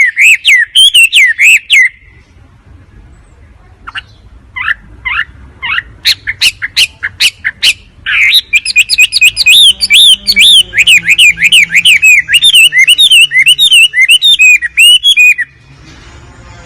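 Wambi bird call, a recording for training or luring birds: rapid runs of sharp, high chirps. Sparse single notes come in the middle, then a long, dense burst of chirping that stops suddenly near the end.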